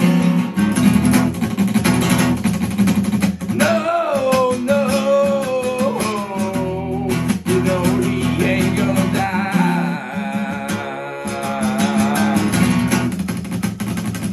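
Grunge rock band music: a lead guitar plays a solo with bending, gliding notes over the rhythm guitar, bass and drums.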